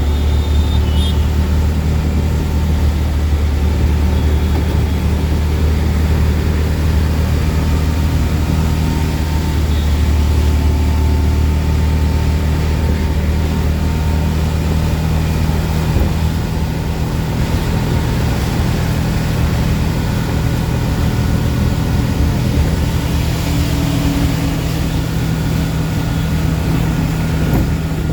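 An auto rickshaw's single-cylinder engine running steadily through a ride, its low hum heard from inside the open cabin. It sits over a steady hiss of road and rain noise.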